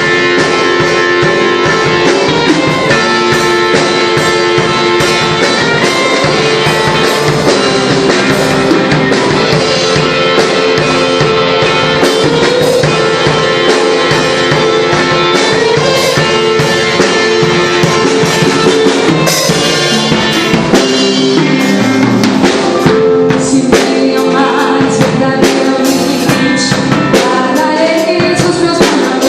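Live gospel band playing a song: drum kit, guitar and other instruments, with singing heard at times.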